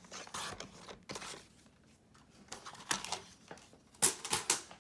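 Paper being handled and cut: short rustling, rasping strokes, with a quick run of louder sharp rasps near the end.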